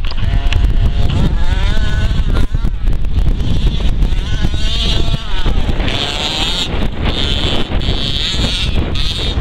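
Engine of an FG radio-controlled monster truck running and revving up and down, with heavy wind noise on the microphone.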